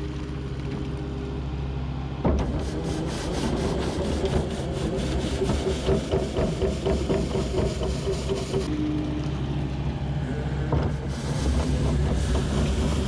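Skid steer loader engine running steadily; about two seconds in it gets louder and a fast rattle joins it, easing off again past the middle.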